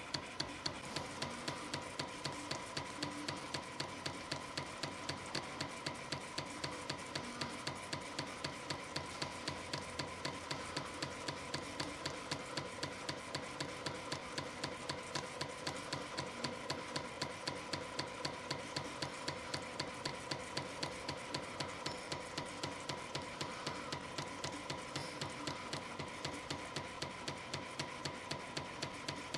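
YHM CF-310 CNC compression-spring coiling machine running steadily while coiling 0.6 mm wire. It makes an even click about three times a second over a steady whine.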